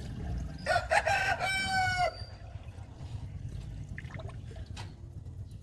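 A rooster crowing once, about a second long: a choppy start then a held final note that cuts off.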